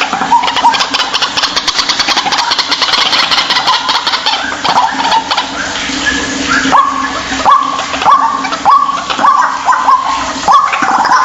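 White-breasted waterhen calling: a row of short notes, each rising quickly and then held, repeating about twice a second and growing stronger past the middle. A dense hiss of background noise runs underneath.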